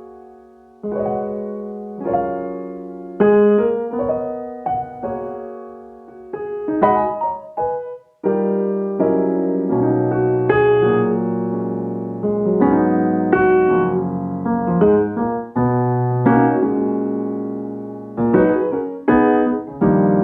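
Background piano music: struck notes and chords that ring and fade, in a slow melodic phrase.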